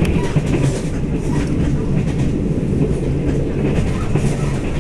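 Interior running noise of a Taiwan Railway EMU1000 Tze-Chiang electric multiple unit at speed: a steady low rumble of wheels on rail with a faint hum and occasional light clicks, heard inside the passenger car.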